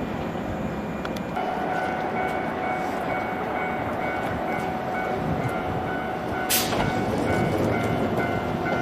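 JR 103 series electric train sounding steadily, with a steady pitched hum coming in about a second and a half in and a single sharp clack about six and a half seconds in.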